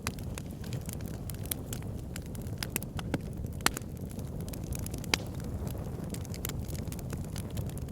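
Wood fire in an outdoor fire pit burning steadily with a low rumble and irregular crackles, a few sharper pops standing out.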